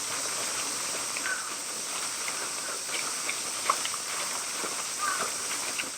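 Outdoor ambience by a pond: a steady high hiss with a few faint short bird chirps and ticks scattered through it, fading out at the end.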